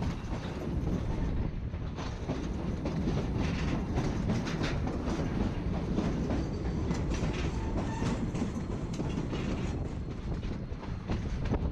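Narrow-gauge passenger train rolling along, heard from on board: steady rumble of the cars with the wheels clicking and clacking over the rail joints.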